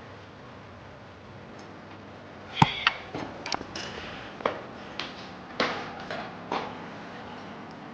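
A run of about ten sharp clicks and knocks, unevenly spaced, starting a little over two seconds in and stopping shortly before the end; the first is the loudest.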